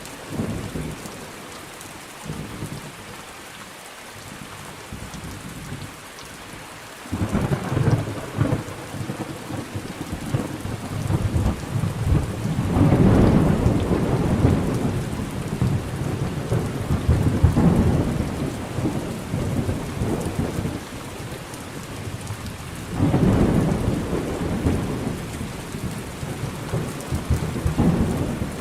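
Thunderstorm: rain falling steadily while thunder rumbles in long rolls. The first several seconds hold mostly rain; a roll of thunder then builds, loudest around the middle, and another begins near the end.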